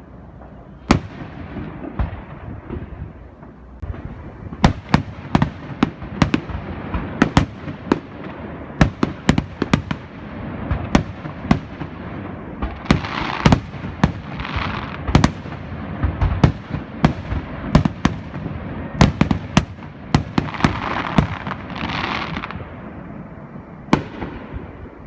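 Fireworks display: aerial fireworks bursting in a rapid run of sharp bangs, sparse at first and then coming several a second. Two longer hissing spells come about halfway through and again near the end.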